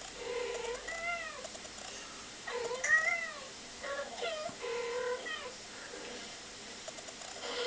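Domestic cats meowing: a run of about six short meows and chirps, each rising and falling in pitch, the loudest about three seconds in.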